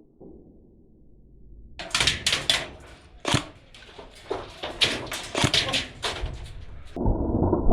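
Airsoft gunfire: an irregular series of sharp snaps and cracks starts about two seconds in. Near the end it gives way to a muffled steady rush.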